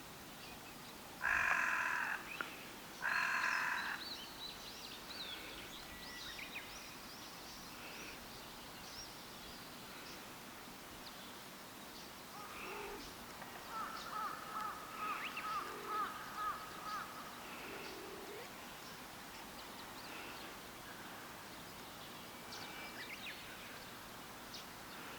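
Two loud, harsh caw-like bird calls, about a second and a half apart, then scattered soft chirps of small birds with a run of quick repeated notes in the middle.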